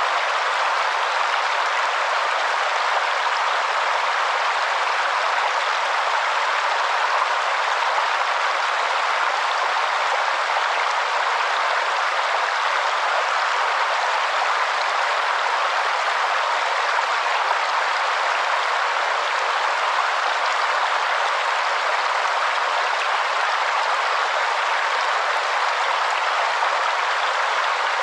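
Waterfall: a steady, unbroken rush of falling water, strongest in the mid and upper range with little deep rumble.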